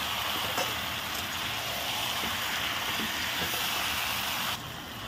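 Marinated chicken sizzling steadily in hot oil in a karahi while being stirred with a spatula, with a few faint scrapes of the spatula on the pan. The sizzle drops quieter near the end.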